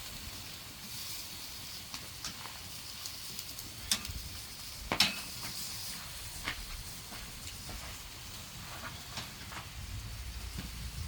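Food sizzling in a pan, a steady hiss, with a few sharp clinks of a utensil against the pan, the loudest about five seconds in.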